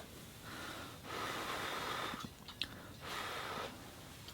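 A person's breathy exhales while eating hot soup: two airy breaths about a second long each, with a small click between them.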